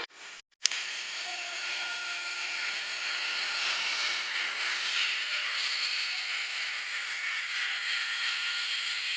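A large wood bonfire burning, giving a steady hissing rush of noise. It cuts in abruptly with a click about half a second in.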